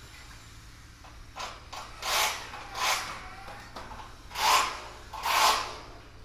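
A series of short rubbing strokes, six in all, the four loudest spaced about two to five and a half seconds in.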